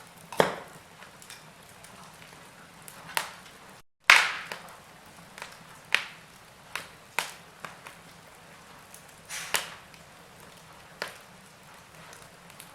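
Wood fire crackling in a fireplace: irregular sharp pops and snaps over a faint hiss. The loudest snap comes about four seconds in, just after a brief drop-out in the sound.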